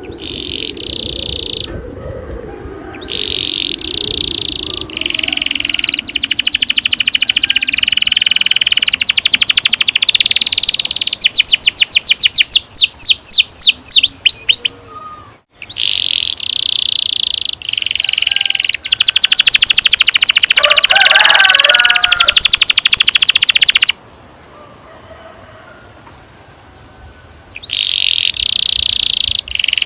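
Domestic canary singing long rolling trills in phrases, with a run of quick sweeping notes near the middle. The song breaks off briefly about halfway and pauses for a few seconds near the end before starting again.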